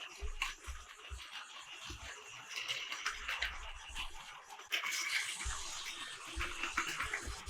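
Battery-powered Plarail toy trains running on plastic track: a small electric motor buzzing, with a scatter of clicks and clatter from the wheels and track. It grows louder about two thirds of the way through.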